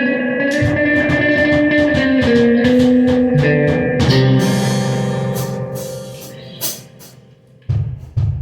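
Guitar and drum kit playing together in a band rehearsal: held, ringing guitar notes over drum strokes, with a cymbal crash about four seconds in. The playing dies away, and near the end the drums start alone with low hits about twice a second.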